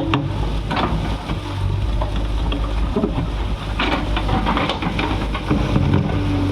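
JCB 3DX backhoe loader's diesel engine running steadily under digging load, with clanks and scraping of the bucket and arm working soil about a second in and again about four seconds in. The engine note strengthens near the end.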